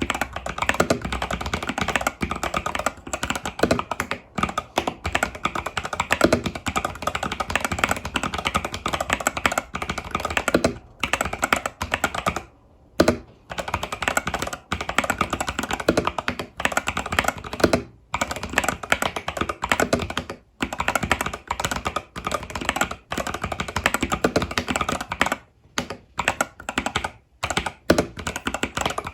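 Fast continuous typing on an Epomaker TH80 Pro mechanical keyboard with Epomaker Budgerigar tactile switches and stock keycaps, a dense stream of key clacks broken by a few brief pauses.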